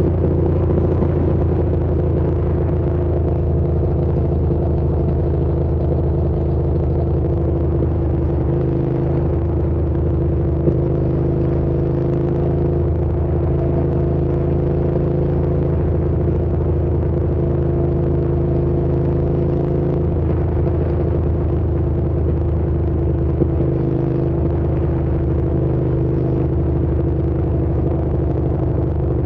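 Hyosung GT650's V-twin engine running at a steady cruising speed, its note holding level with only small changes in pitch.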